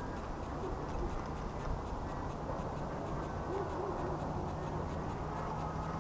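A bird hooting in short, low calls, once and then three in quick succession about halfway through, over a steady low rumble of wind on the lakeshore. A faint steady hum joins about two-thirds of the way in.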